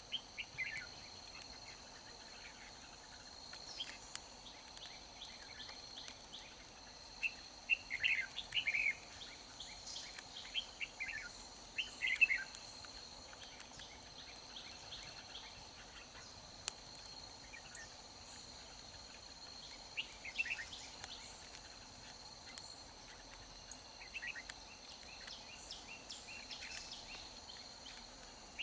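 Red-whiskered bulbuls singing short warbled phrases every few seconds, the loudest about eight and twelve seconds in, over a steady high insect drone.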